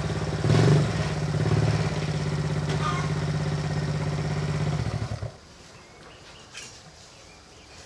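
A small engine running steadily, then shut off about five seconds in. Faint scattered taps follow.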